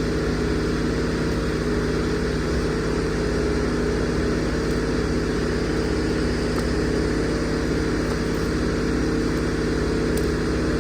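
Excavator engine running steadily at a constant speed, with no revving.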